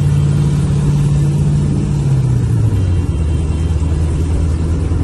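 Gen IV 5.3-litre V8 swapped into a 1996 Chevrolet Impala SS, running as the car is driven on an exhaust that still needs welding. The engine note is steady, then drops in pitch a little past two seconds in as the revs come down, and holds lower.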